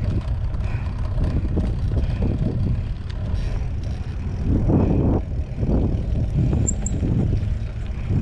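Riding noise from a mountain bike on a dirt trail: a steady low rumble of tyres rolling and wind on the microphone, with a louder, rougher stretch about five seconds in.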